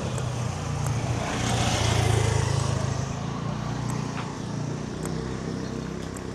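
A motor vehicle passing close by on the street: its engine hum and road noise swell to a peak about two seconds in, then fade as it moves away.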